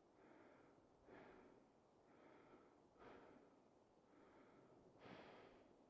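Faint, steady breathing in and out close to the microphone, about one breath every second.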